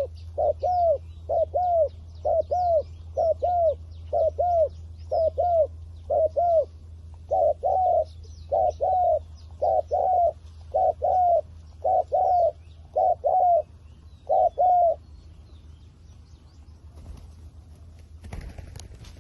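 Spotted dove cooing: a long regular run of short, arched coos, many in pairs, that stops about 15 seconds in. Faint chirps of small birds and a steady low hum run underneath, and a brief rustling noise comes near the end.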